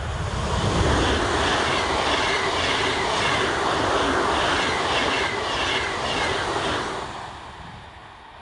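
A train passing close at speed, its wheels clattering in a steady beat of nearly two a second over rail joints; the noise swells in the first second and fades away near the end.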